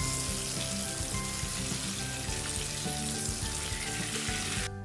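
Eggplant pieces sizzling in hot mustard oil in a kadhai as they are lifted out with a spatula. The sizzle cuts off suddenly just before the end.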